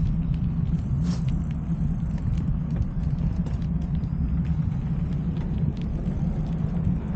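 Steady low rumble of riding noise on a rider's camera, with scattered light clicks and rattles.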